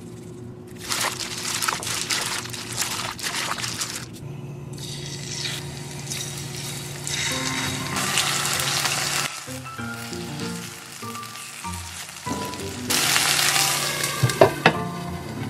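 Starch-dusted chicken pieces sizzling as they fry in a pan, the sizzle coming and going in several stretches. Near the end, a few sharp clinks as a glass lid is set on the pan.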